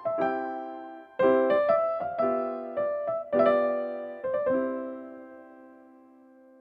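Background piano music: a gentle run of notes and chords, the last chord struck about four and a half seconds in and left to ring and fade away.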